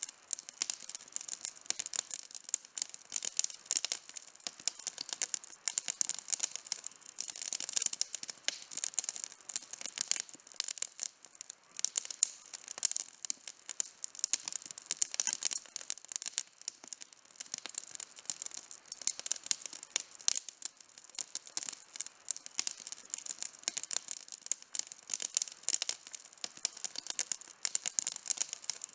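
Wood campfire burning, with dense irregular crackling and popping.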